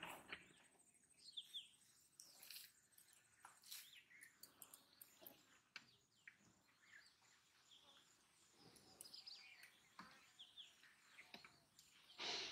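Faint outdoor quiet with a few short bird chirps scattered through it, and small scattered clicks and rustles, the loudest near the end.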